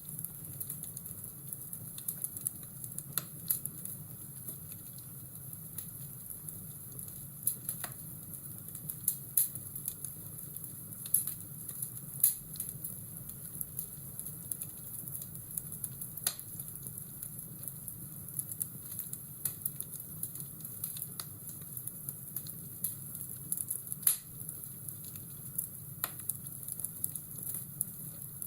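Fireplace ambience: a wood fire crackling, with irregular sharp pops over a steady hiss and a low rumble.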